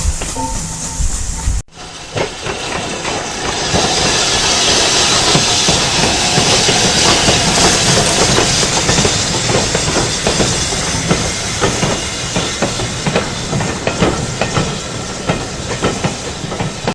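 Steam train on the move: a steam locomotive's loud steady hiss mixed with the clatter of its wheels over the rails. The sound breaks off sharply about one and a half seconds in and picks up again, the hiss swelling.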